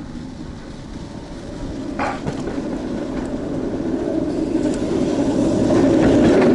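Road traffic: a motor vehicle approaching, its engine and tyre noise growing steadily louder and peaking near the end, with a short sharp knock about two seconds in.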